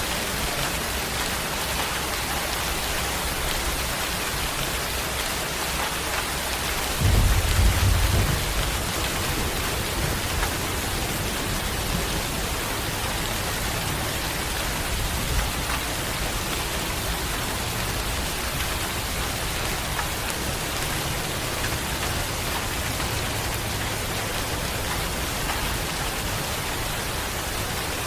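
Steady rain falling, with a low rumble of thunder about seven seconds in that fades away over several seconds.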